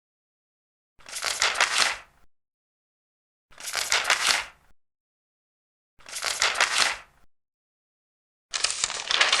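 Large paper pages being turned one at a time, four page turns each a rustle of about a second, with silence between.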